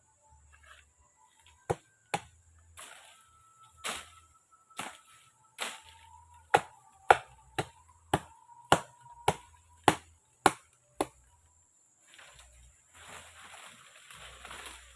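A series of sharp knocks, widely spaced at first and then about two a second, stopping about eleven seconds in, followed by a rustling, splashing noise near the end.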